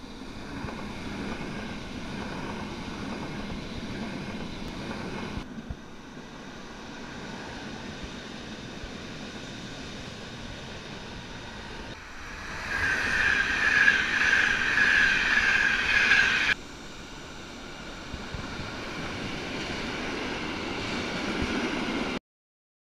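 Trains running through stations at speed, in several clips cut together: a Frecciarossa high-speed train, then another high-speed train, loudest, with a steady high tone over its rush for about four seconds, then a freight train of graffiti-covered wagons.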